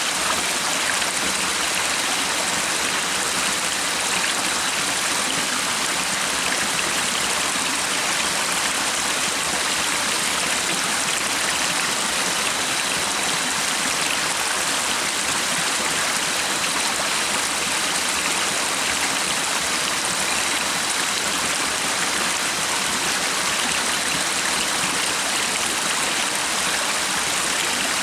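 A stream's water running steadily, a continuous even rush of flowing water.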